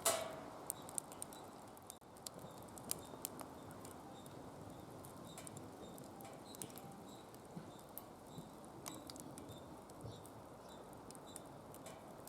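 Wood fire burning in a secondary-combustion fire pit, crackling: a faint steady rush of flame with scattered sharp pops, the loudest right at the start.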